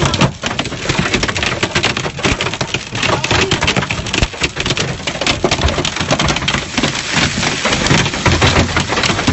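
Heavy storm rain pelting down on a hard surface: a loud, dense patter of hits without let-up.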